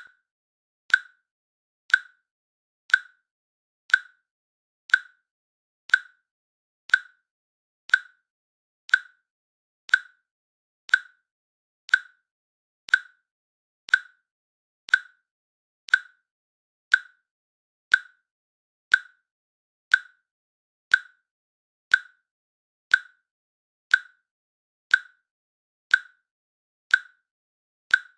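Countdown timer's click sounding once every second: short, sharp, evenly spaced ticks with silence between them.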